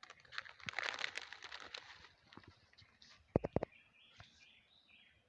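Plastic litter crinkling and rustling as it is picked up and handled, followed about three and a half seconds in by two or three sharp knocks.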